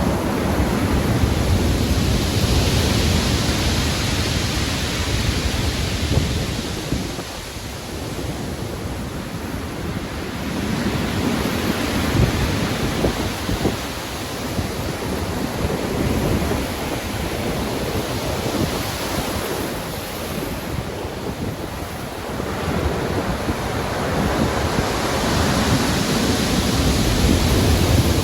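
Heavy ocean surf in a storm, waves rising and falling in long swells, the loudest near the start and again near the end, with wind noise throughout.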